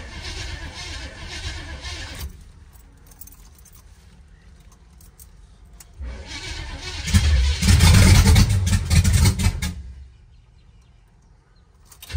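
Starter cranking the 1972 Impala's 454 big-block V8 for about two seconds, then stopping. About six seconds in it cranks again, and the engine fires and runs loudly for about three seconds before cutting out.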